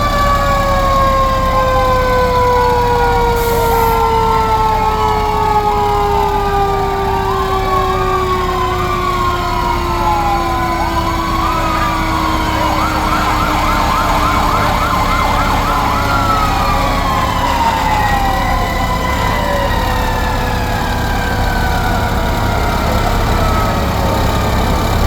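Several fire truck sirens sounding at once over the low rumble of truck engines. One siren's tone falls slowly in pitch across most of the stretch while others wail up and down, and a fast yelp cuts in for a few seconds in the middle.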